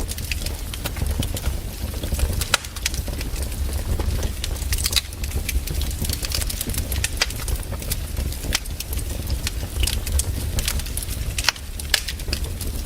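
Wood fire crackling, with frequent sharp irregular pops over a low steady rumble.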